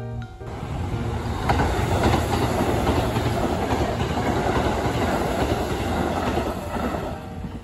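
Sanyo Electric Railway commuter train passing close by, its wheels rumbling and clacking over the rails. It swells about half a second in, stays loud, with a sharp click about one and a half seconds in, and fades near the end.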